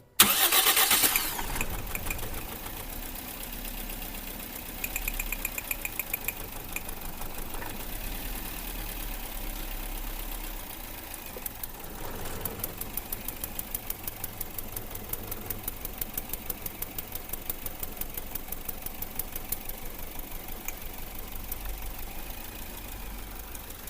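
A car engine is running with a misfire. It is loud in the first second or two, then settles into a steady idle with a regular, uneven pulse of a few beats a second.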